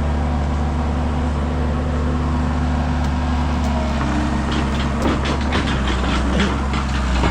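Heavy diesel machinery engines running steadily under a vehicle recovery, with metallic clanking and rattling joining in from about four and a half seconds in.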